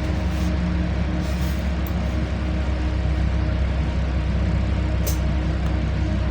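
Steady low drone of a LiAZ-5292 city bus heard from inside while it drives, engine and road noise together, with a short hiss about five seconds in.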